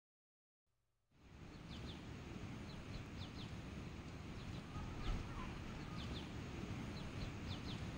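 Outdoor ambience that begins about a second in: a steady low noise with birds chirping in short, high calls, often in twos and threes, slowly growing louder.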